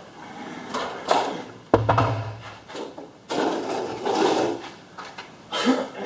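Knocks, clatter and scraping of the LiftMaster garage door opener's cover and housing being handled, with a sharp knock about two seconds in.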